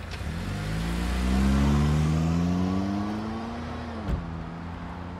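Buick Enclave SUV's engine revving as it accelerates away, pitch rising steadily for about four seconds, then dropping sharply and settling.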